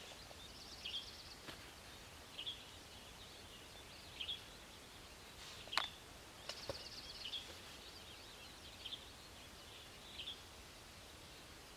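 Faint songbird calls: short chirps repeating about every second and a half, with two brief rapid high trills. A sharp click comes about six seconds in.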